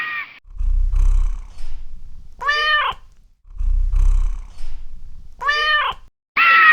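A cat purring with a low, pulsing rumble, broken by two short meows that rise and fall in pitch; a louder, steadier cry is heard at the start and again near the end.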